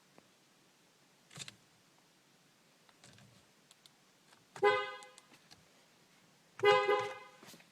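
Car horn giving two short honks about two seconds apart, each a two-note blast that dies away quickly. A short, faint knock comes about a second and a half in.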